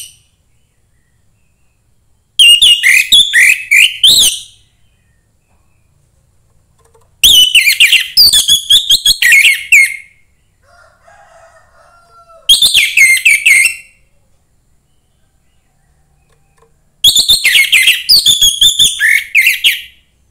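Young wild orange-headed thrush singing: four loud phrases of rapid, varied whistled notes, each a couple of seconds long, with pauses of a few seconds between them.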